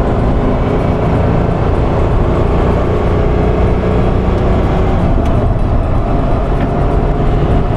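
Ferrari 512 BB's flat-12 engine running at a fairly steady pitch.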